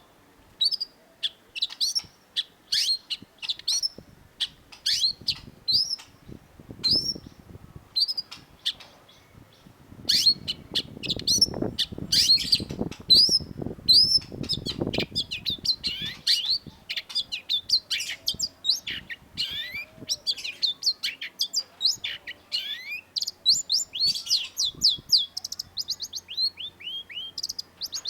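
Long-tailed shrike singing sharp, short sweeping notes, about one to two a second at first, then a faster, denser chatter in the second half. A short run of falling notes comes near the end. A low rumble sits under the song for a few seconds around the middle.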